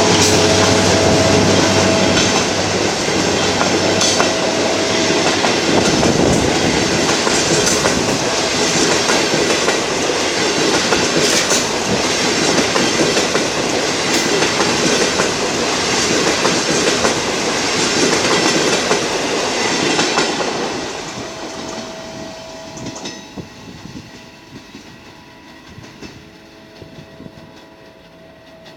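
Passenger train passing: the drone of its EMD diesel locomotives fades in the first few seconds, then the coaches roll by with wheels clacking over rail joints. About 21 seconds in the noise drops away as the end of the train passes and recedes.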